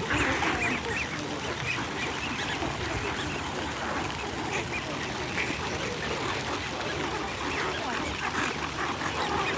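A flock of waterfowl, ducks and geese, calling over one another in a steady, busy din of many short overlapping quacks and honks.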